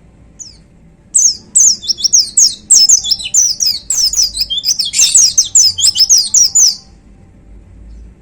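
A white-eye (pleci) sings a fast, loud burst of short, high, downward-slurred notes, several a second. The burst starts about a second in and breaks off suddenly nearly six seconds later.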